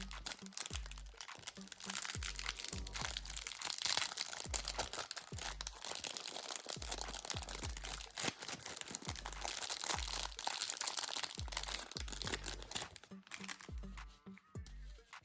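Plastic packaging crinkling and crackling as it is handled, over background music with a steady bass beat. The crinkling dies away near the end.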